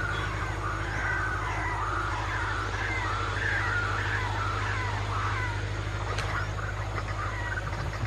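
Birds calling with wavering, warbling notes, dying away after about six seconds, over a steady low hum.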